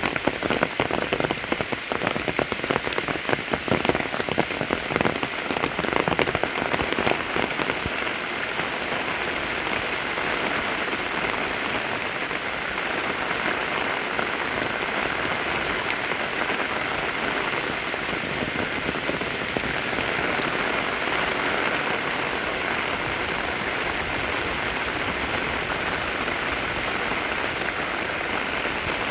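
Steady rain falling, with many distinct close drops striking over the first several seconds, settling into an even hiss of rain after that.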